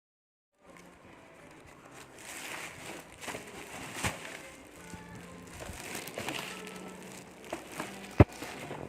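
Packaging rustling and crinkling as a plastic baby activity walker is unpacked and handled, with scattered knocks, the sharpest one near the end. Soft music underneath.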